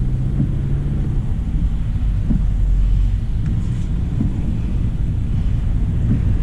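A 2025 Hyundai Elantra SEL driving: a steady low rumble of road and engine noise, with a few small thumps.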